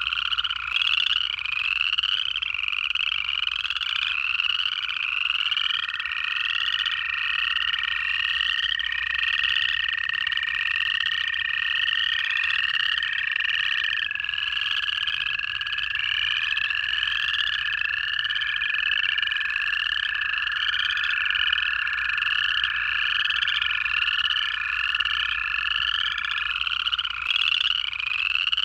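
Chorus of upland chorus frogs giving rapid, overlapping ascending trills, over one or more long, steady American toad trills that hold for many seconds.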